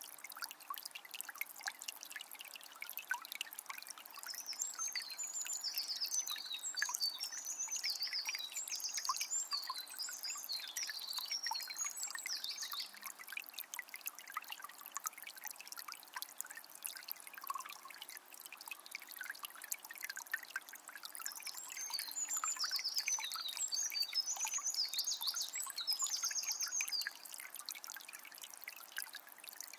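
A small forest river trickling and babbling over stones, a steady splashing patter. A songbird sings a long warbled phrase twice, about four seconds in and again just past twenty seconds.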